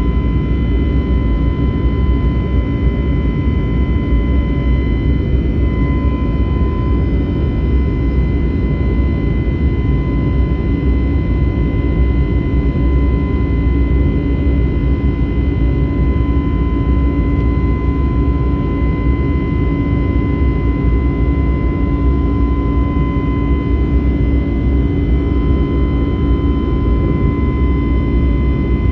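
Airbus A321neo's jet engines and airflow heard inside the passenger cabin: a loud, steady roar heaviest in the low end, with a thin, steady high hum over it.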